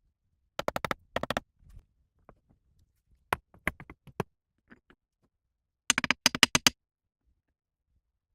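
Quick bursts of sharp knocks or taps, several strokes to a burst, coming in four short clusters with pauses between.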